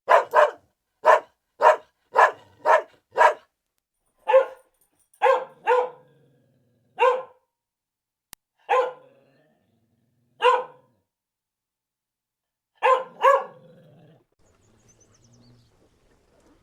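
A dog barking repeatedly: quick barks about two a second at first, then single barks with pauses of a second or more, ending with a quick pair.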